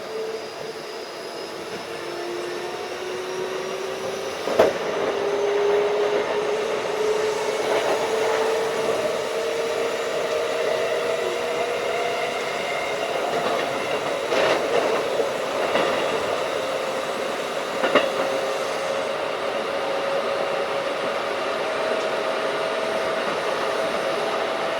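Keikyu 1500 series field-chopper-controlled electric train running and gathering speed: its traction motor whine climbs steadily in pitch over the rolling noise. Sharp knocks from the wheels come about five seconds in and again about eighteen seconds in.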